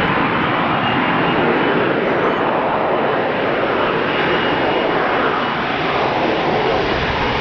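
AV-8B Harrier's Pegasus vectored-thrust engine running loud and steady, most likely holding the jet in the hover, with a faint high whine over the dense jet noise in the first couple of seconds.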